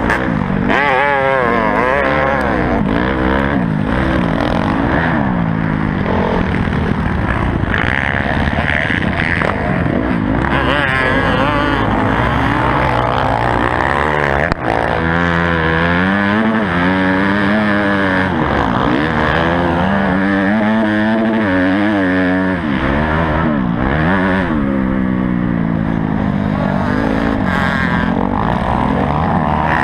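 Honda CRF250 dirt bike's four-stroke single-cylinder engine being ridden hard, revving up and down continuously with throttle and gear changes. The pitch climbs and drops every second or two throughout.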